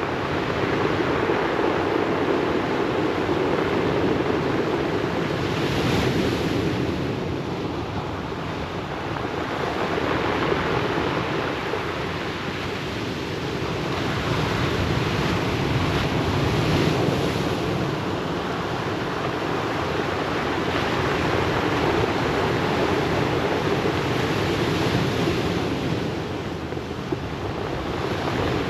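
Ocean waves breaking and washing over a pebble beach: a continuous surf rush that swells and falls back every several seconds, with louder hissing surges about six, seventeen and twenty-five seconds in.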